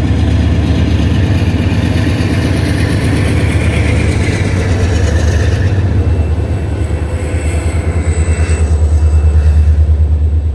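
Diesel-electric freight locomotives passing close below, a CSX lead unit followed by a WAMX EMD SD45 with its 20-cylinder engine, running with a loud, deep rumble that throbs more heavily in the last few seconds as the train's gondola cars roll past.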